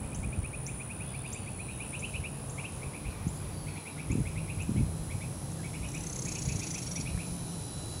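A bird calling in rapid runs of short, evenly spaced notes, about nine a second, each run lasting around a second, with a few separate higher chips, over a steady high-pitched insect drone. Low thumps from walking and camera handling sound underneath.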